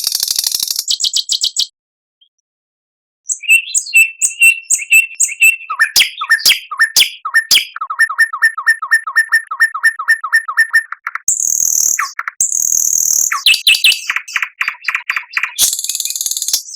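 Songbirds singing on a bird-song training (masteran) recording: a fast, high trill, a pause of about a second and a half, then varied chirps and whistles. Next comes a long run of rapid repeated notes, and near the end loud, high buzzy trills.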